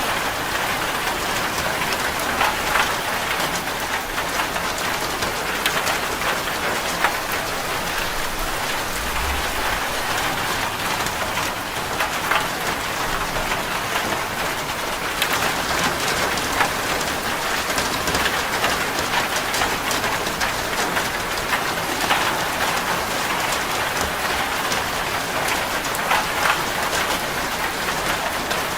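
Steady heavy rain drumming on a corrugated zinc roof: a dense, even patter of drops.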